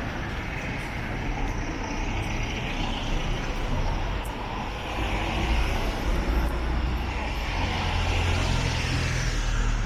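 Road traffic passing: a steady rush of engines and tyres that swells and fades several times.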